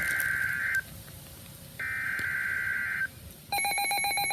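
NOAA Weather Radio receiving a new alert: two bursts of the SAME digital header, each a screechy warbling data tone about a second long, then a rapid string of electronic beeps near the end as the radio announces the alert.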